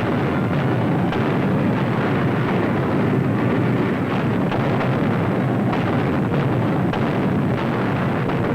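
Newsreel battle sound of anti-aircraft gunfire and explosions: a dense, steady rumble with many quick shots throughout.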